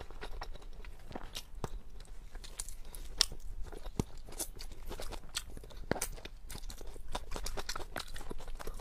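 A person chewing and crunching food close to a clip-on microphone, with irregular sharp crunches throughout.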